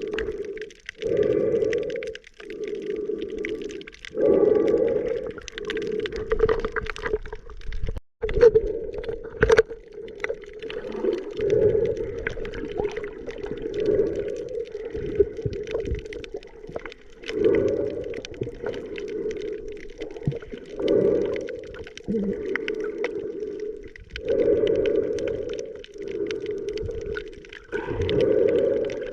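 Muffled underwater sound of the sea during snorkeling, swelling and fading about every three to four seconds.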